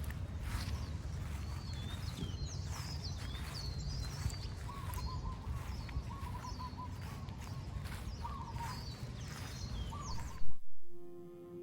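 Several birds chirping and trilling over a steady low wind rumble. About ten and a half seconds in, a single sharp knock; the outdoor sound then cuts off and plucked guitar music begins near the end.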